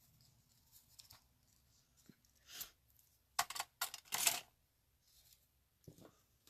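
Quiet handling of card stock and twine, with a handful of short, scratchy rustles bunched about two and a half to four and a half seconds in as the twine is cut and secured.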